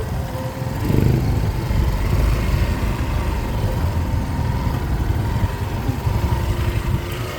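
A motor vehicle running with a steady low engine and road rumble, swelling briefly about a second in.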